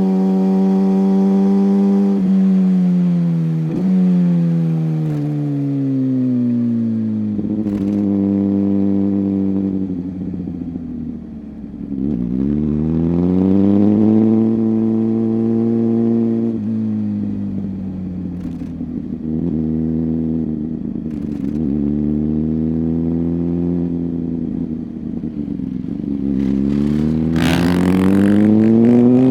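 Suzuki GSX-R1000R sport bike's inline-four engine under way, its note rising and falling as the rider accelerates and rolls off through the gears, climbing hard again near the end. A short rush of noise comes about two seconds before the end.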